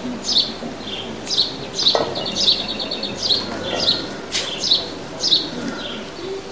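A small bird chirping over and over, short falling chirps about two a second, with a quick rattling trill about two seconds in.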